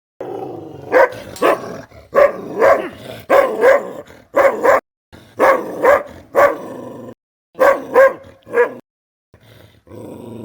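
Kanni dog barking repeatedly, in quick runs of several barks with short pauses between.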